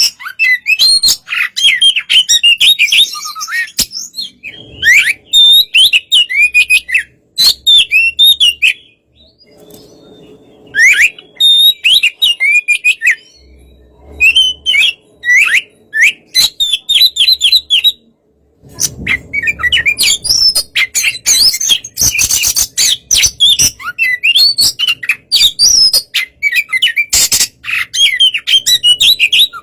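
Oriental magpie-robin singing: quick varied phrases of rising and falling whistles mixed with harsh, scratchy notes, broken by a couple of short pauses.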